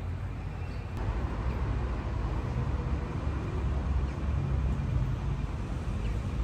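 Street ambience: a steady low rumble of passing road traffic with general city noise.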